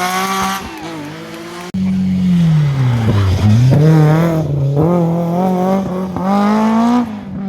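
A historic rally car's engine at full stage pace: after a sudden cut a little under two seconds in, the engine note falls steeply as the car slows for a corner, then climbs again in steps through the gears as it accelerates away.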